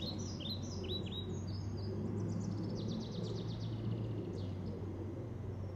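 Songbirds chirping: a run of short, falling chirps, then a fast trill about three seconds in, over a steady low hum.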